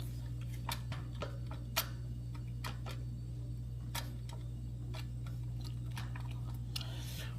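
Scattered, irregular light clicks and ticks of hand tools and small metal hardware being handled while working on a motorcycle's shift linkage, over a steady low hum. A short scraping rustle comes near the end.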